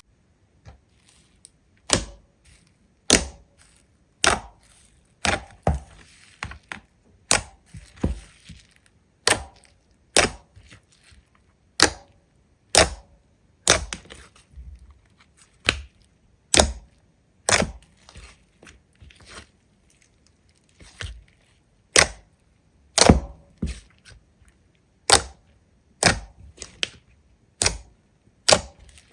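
Slime being played with, making sharp crackling pops about once a second, some with a short hiss after them.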